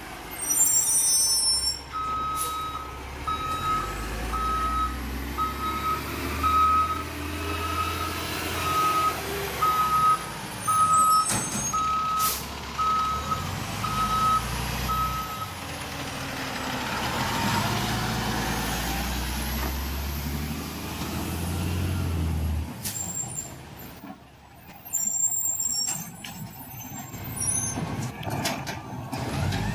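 Recycling truck reversing with its engine running and its backup alarm beeping about once a second, a dozen or so beeps. Its air brakes hiss near the start, about midway, and several times near the end.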